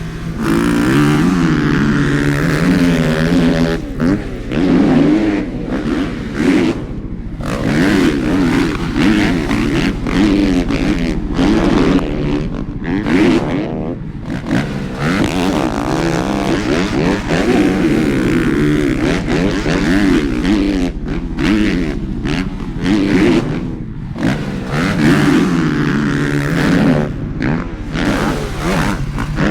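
Motocross bikes racing head to head, their engines revving up and falling back again and again as the riders open and close the throttle over a rhythm section of jumps.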